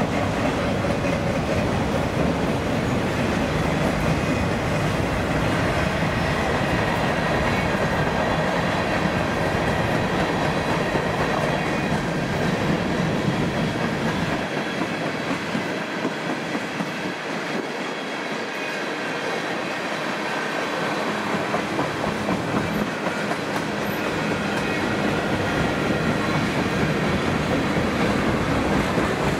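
Freight cars of a long train, autoracks and then tank cars, rolling steadily past on steel wheels and rails. The deepest part of the rumble thins out briefly around the middle, then comes back.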